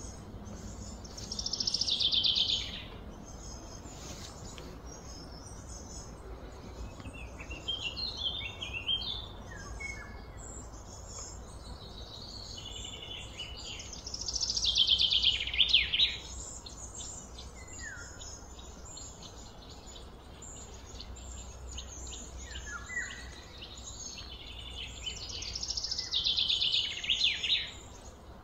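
Birds singing: a loud trilled song phrase comes three times, about every twelve seconds, with scattered short chirps and falling whistled notes between, over a faint steady low background hum.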